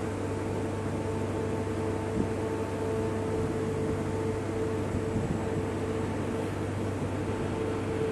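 Wall-mounted electric fans with mesh guards running: a steady drone with a constant humming tone, broken by one brief knock about two seconds in.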